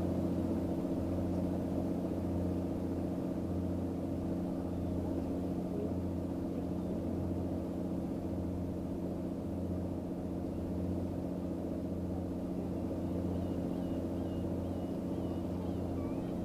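An engine idling steadily: a low, even hum with a slow regular pulse about once a second.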